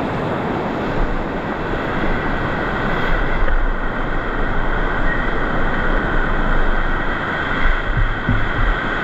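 Whitewater rushing steadily through a river rapid, with low rumble from wind or handling on the microphone.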